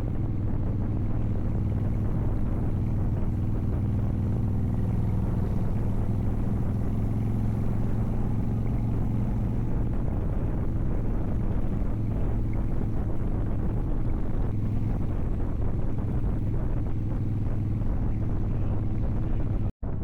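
Motorcycle engine running steadily while riding, with wind rushing over the microphone. The sound cuts out for an instant near the end.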